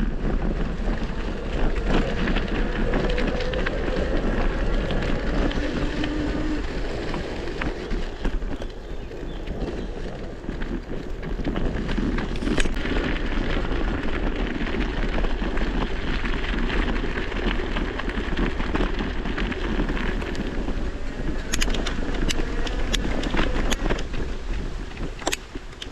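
Wind buffeting the microphone while riding a bicycle, with tyre noise and scattered clicks and rattles from the bike. The noise drops away at the very end.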